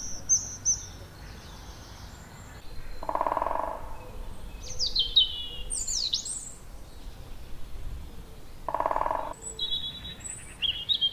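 Woodland birdsong: several birds singing quick, high whistled phrases that slide downward. Two lower, coarser calls come about six seconds apart.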